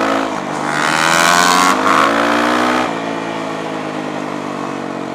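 Motorcycle engine accelerating hard, its pitch climbing for about two and a half seconds with wind rushing over it, then dropping suddenly about three seconds in as it shifts up, and running on at a steady, lower note.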